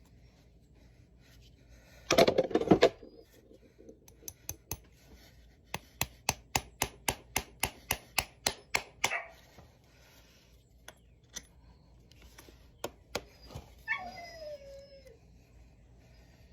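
Hoof-trimming tools working on a horse's hoof: a short harsh scraping burst, then a run of about a dozen sharp clicks at about four a second, and a brief falling squeak near the end.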